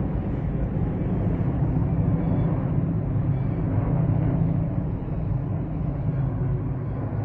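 Steady low rumble of military helicopters in flight.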